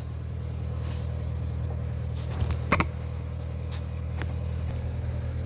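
Engine of an engine-driven welder running steadily at a low, even hum, with a single sharp click about two and a half seconds in.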